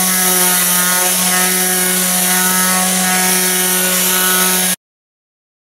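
Craftsman electric palm sander running at a steady hum, with the hiss of fine 400-grit paper rubbing an end-grain wooden butcher block; the sound cuts off abruptly about a second before the end.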